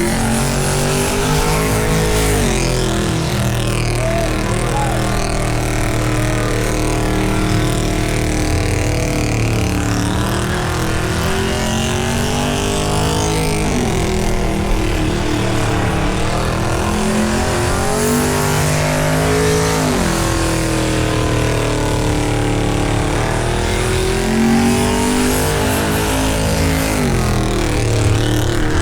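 V8 engine held at high revs in a burnout, the revs dropping sharply and climbing back several times.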